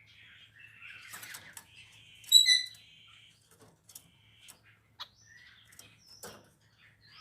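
Pancawarna bird chirping in short scattered notes, with one loud call about two and a half seconds in, and a few sharp clicks later on.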